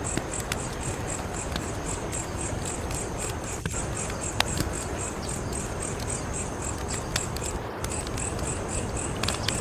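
Wood fire crackling, with a steady rushing hiss and scattered sharp pops. Crickets chirp in an even, high pulse of about four a second, breaking off briefly near the end.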